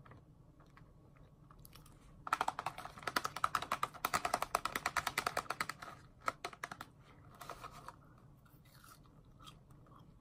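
McDonald's fries being crunched and chewed close to the microphone, eaten straight from the paper carton. A dense run of crisp crunches lasts about four seconds from a couple of seconds in, then thins to scattered crunches and clicks.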